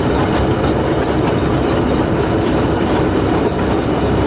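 Narrow-gauge locomotive running along the line, heard from its cab: a steady, loud engine drone with the wheels rumbling over the rails.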